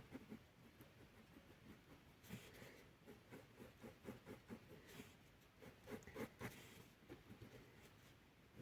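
Faint scratching of a drawing tool stroking across paper: many short strokes in quick succession, with a few louder, sharper ones around the middle.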